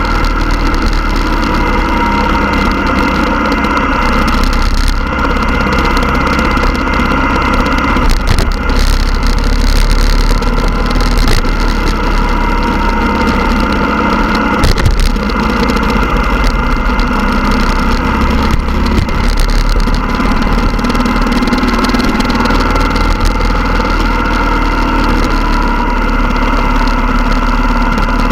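Motorcycle engines running loudly and steadily, with a constant low rumble.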